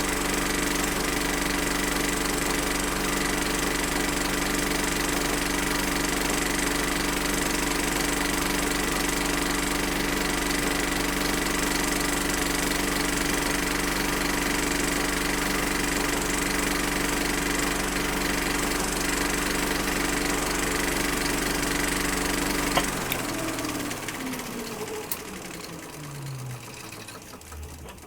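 Film projector running steadily with a mechanical hum and clatter. About 23 seconds in it is switched off and winds down, its pitch falling and the sound fading over the last five seconds.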